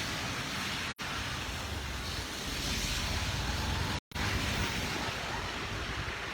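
Steady rushing noise of wind on the microphone over low street rumble, cutting out for an instant twice.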